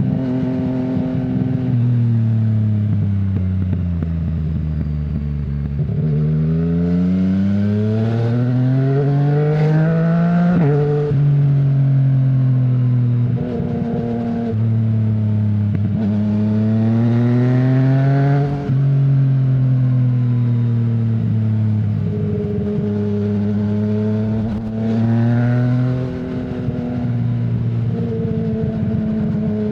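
Yamaha MT-09's inline three-cylinder engine through an Akrapovic full-system exhaust with no dB killer, ridden on the road. The revs fall off at first, then climb twice in long pulls, each ending in a sudden drop like an upshift or roll-off. After that the bike cruises at fairly steady revs, with a brief dip near the end.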